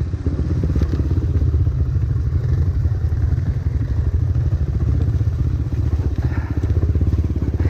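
Trail motorcycle engine running steadily at low revs.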